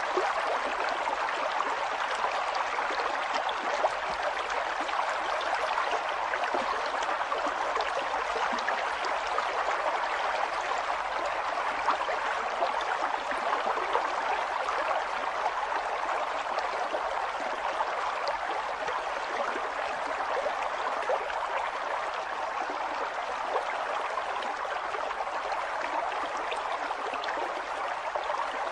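River water flowing over stones: a steady rush dotted with constant small splashes and gurgles.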